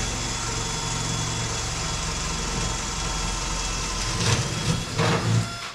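Power drill running steadily as it bores a rivet hole through the cab's sheet-metal skin, with a few louder surges near the end before it stops suddenly.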